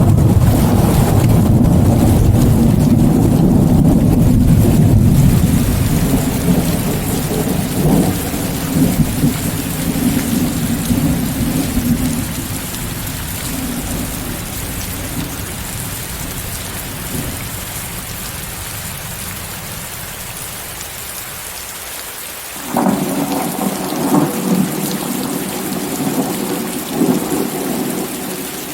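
Steady heavy rain under white noise, with thunder. A long rolling rumble dies away over the first twenty seconds, then a fresh peal with several sharp peaks breaks in about twenty-three seconds in.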